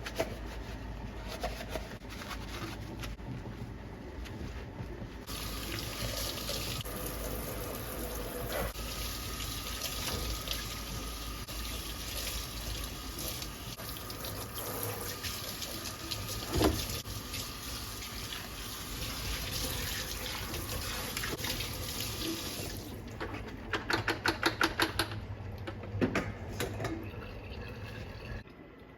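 Water running from a tap into a sink. The flow starts about five seconds in and stops shortly before the end. A quick run of clicks and a couple of knocks follow.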